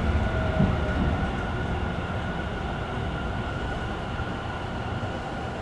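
Tobu commuter train heard from inside the car: a low rumble of wheels on rail that eases off over the first couple of seconds, then a steadier, quieter running noise with a thin high tone held throughout.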